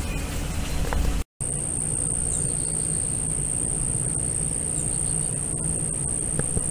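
Insects calling as one steady, high-pitched whine over a low rumble, starting abruptly about a second in.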